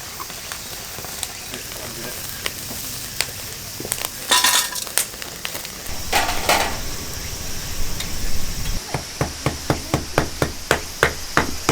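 Food sizzling on a charcoal grill in two short bursts, then a run of even, sharp knocks about three a second starting near the end.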